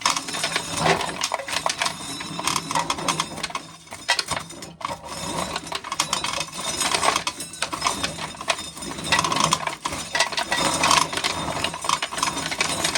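Dry corn being shelled: a dense, continuous rattle and clatter of hard kernels and shelling mechanism, many small clicks close together.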